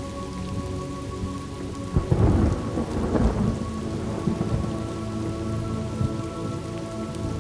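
Steady rain with a clap of thunder about two seconds in that crackles and rumbles on for a couple of seconds before fading back into the rain.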